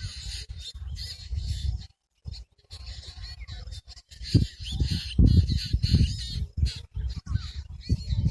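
Birds chirping and calling in quick, twisting notes, over an uneven low rumble that comes and goes in gusts.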